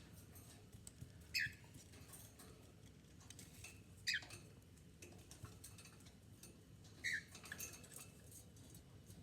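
Cockatiels giving three short chirps a few seconds apart, each dropping in pitch, with faint light clicks in between.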